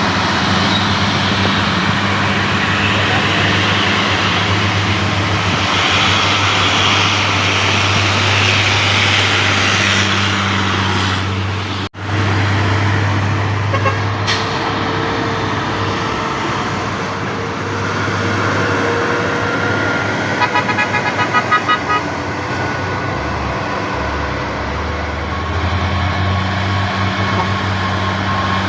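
Heavy road vehicles running steadily with traffic noise, and a low engine hum throughout. About two-thirds of the way through, a vehicle horn sounds a quick run of about eight short toots.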